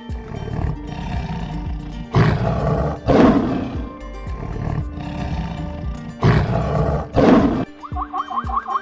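Lion roaring: two big roars about a second apart, the same pair heard again about four seconds later, over background music.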